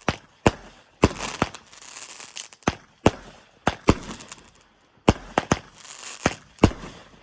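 Fireworks going off: an uneven string of a dozen or so sharp bangs with crackling hiss between them, pausing briefly about two-thirds of the way through.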